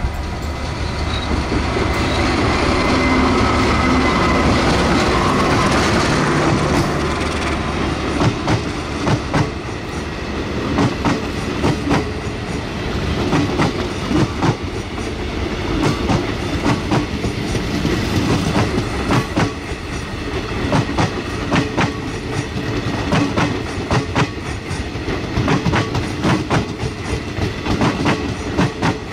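Diesel locomotive hauling a passenger train passes close by, its engine loudest in the first several seconds. Then the coaches' wheels click rapidly over the rail joints as the long line of carriages runs past.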